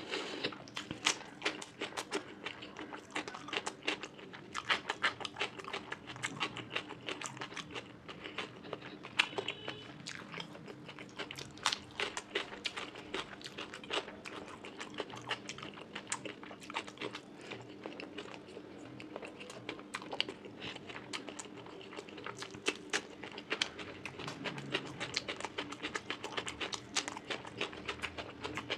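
Close-miked eating sounds of someone chewing mouthfuls of rice and fish curry: a steady, irregular run of wet mouth clicks and smacks.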